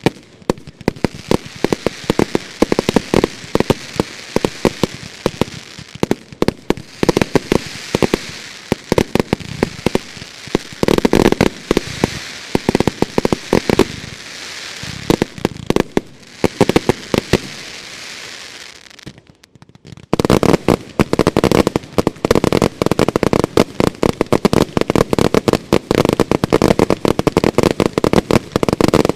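Fireworks finale with rapid, near-continuous bangs and bursts over a crackling hiss. It thins out briefly about two-thirds of the way through, then comes back as an even denser barrage.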